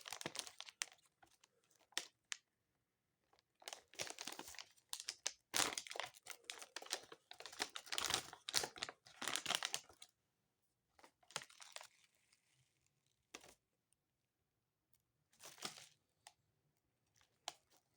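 Plastic snack-bag wrapper of mini donuts being crinkled and torn open by hand, in irregular rustling spurts, busiest in the middle and then a few brief handlings near the end.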